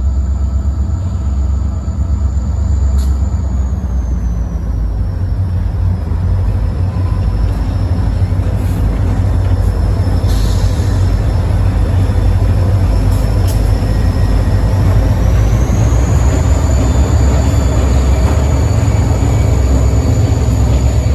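Freight train cars rolling past: a steady, loud rumble of steel wheels on rail, with a thin high whine that dips about four seconds in and climbs back up around sixteen seconds.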